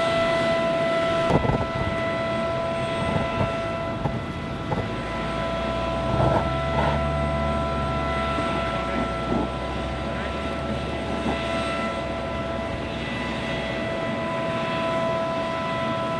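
Private jet's engines whining steadily, several high tones held over a rushing noise. A lower rumble joins about six seconds in and fades near the end, with a few short knocks along the way.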